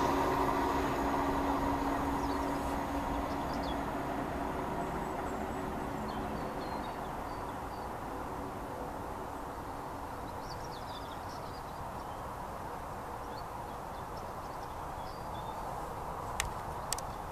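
Diesel multiple unit's engine hum and running noise dying away as the train disappears into a tunnel, fading over the first several seconds to a faint steady background. Birds chirp now and then, and two sharp clicks come near the end.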